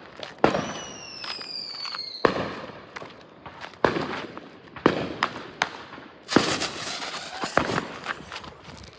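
Consumer artillery (canister) shell fireworks going off: a string of sharp bangs, with a falling whistle in the first two seconds and a dense crackling burst about six and a half seconds in.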